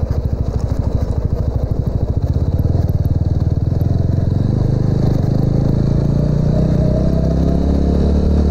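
TVS Apache RTR 200's single-cylinder engine pulsing at low revs, then picking up speed, its pitch climbing steadily towards the end as the motorcycle accelerates.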